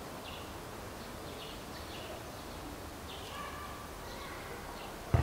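Small birds chirping in the background, short high calls coming every half second or so, over a low steady outdoor noise. A sharp thump near the end.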